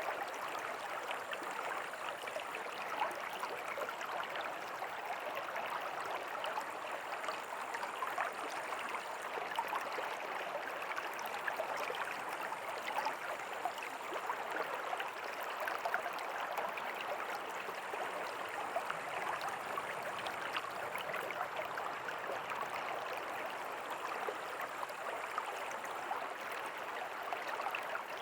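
River water flowing steadily over stones, a constant babbling rush with fine splashing detail.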